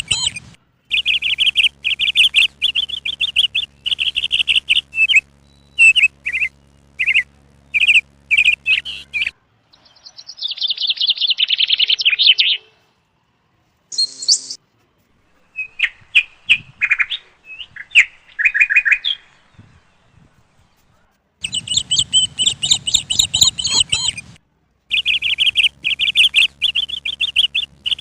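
Small birds chirping in fast, repeated trills and twitters, with a few short breaks.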